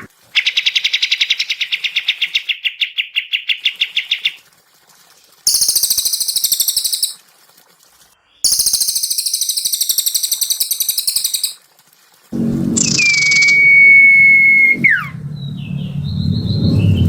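Recorded songbird calls played one after another for bird training: a fast, even trill of about ten notes a second, then two bursts of harsh, high chattering, then a long held whistle that drops sharply in pitch near the end, with a low rumble underneath.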